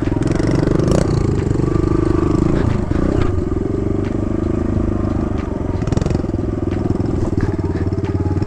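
Kawasaki KLX110 dirt bike's small single-cylinder four-stroke engine running steadily, with scattered knocks and scrapes from the bike moving over the rough trail.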